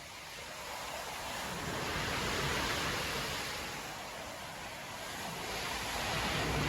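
Storm surf breaking and washing up the shore in a steady rushing noise, swelling to a peak about two and a half seconds in, easing off, then building again near the end.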